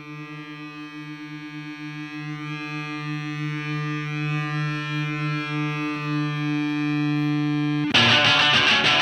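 Rock song intro: a single sustained, effects-laden electric guitar note, wavering at first and swelling steadily louder, then the full band comes in with loud distorted guitars about eight seconds in.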